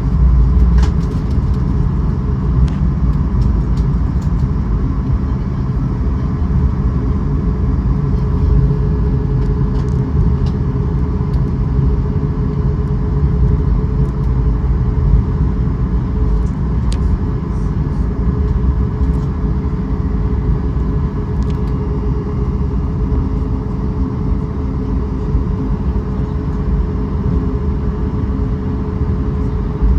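Steady low rumble of a vehicle heard from inside, with a constant hum and a few light clicks.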